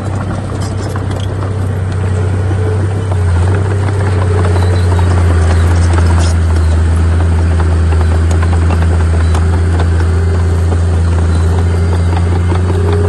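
Heavy diesel earthmoving machine running with a deep, steady drone that grows louder over the first few seconds and then holds, with scattered rattling and clanking over it.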